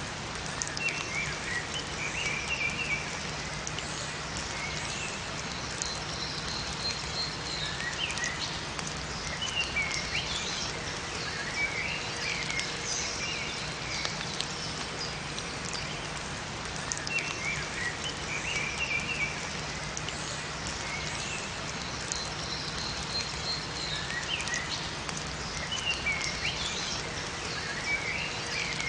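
Steady rain with small songbirds chirping in short phrases that come every few seconds.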